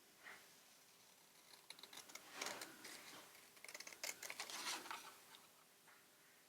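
Faint paper rustling and small snips and clicks as paper tags are cut out with scissors.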